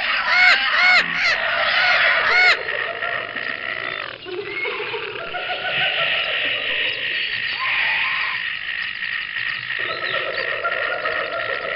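Animal calls: four quick arching calls in the first two seconds or so, then a dense, steady chorus of calling.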